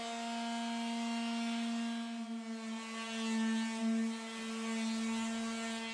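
Electric sander running steadily with a constant motor hum and a hiss of abrasive on wood, finish-sanding ash and softening its edges. The hum wavers and swells briefly about halfway through as the load changes.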